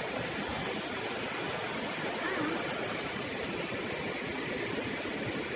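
Water rushing over a river weir: a steady, even rushing noise.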